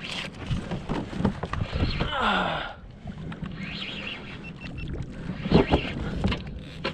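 Water sloshing and slapping against a kayak hull, with scattered knocks on the hull, a louder rush of water about two seconds in and a couple of sharper knocks near the end.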